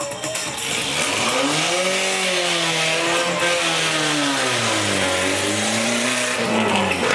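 Monster truck engine revving hard: its pitch climbs about a second in, wavers, dips, climbs again, then falls away near the end.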